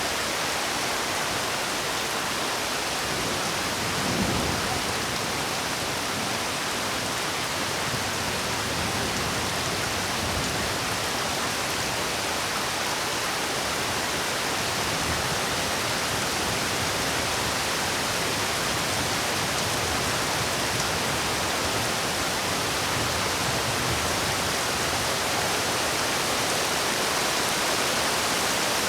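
Steady, dense rainfall, an even hiss of rain with no gaps, and a brief low thump about four seconds in.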